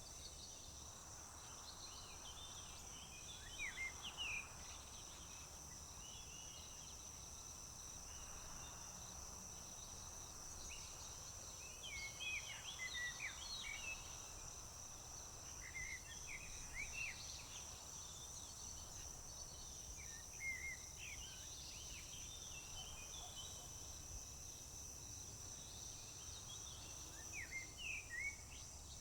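Steady high-pitched trill of crickets, with clusters of quick bird chirps every few seconds over a low, steady rumble.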